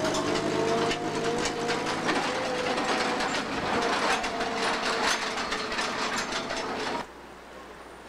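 Railroad cars of a train moving slowly, with a steady whining squeal over a rapid, uneven run of metallic clanks and knocks; the sound cuts off suddenly near the end.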